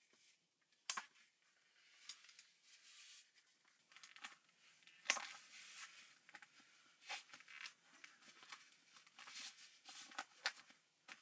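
Quiet, irregular rustling and crinkling handling sounds with a few sharp clicks, the sharpest about one second and five seconds in.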